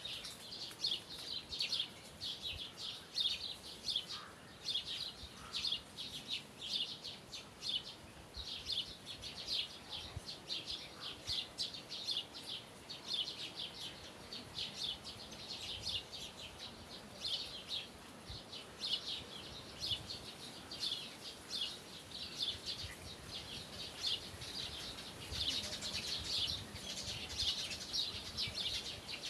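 Small birds chirping, short high chirps repeating several times a second without a break.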